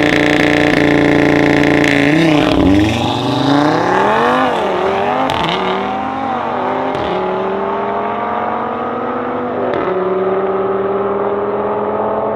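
Two turbocharged five-cylinder engines, one a 600 hp VW Golf 7R running an Audi RS3 engine and the other an Audi RS3 8V Sportback, held at steady high revs on the start line. About two seconds in they launch and accelerate hard away, the engine note climbing in pitch and dropping at each upshift, several shifts in all.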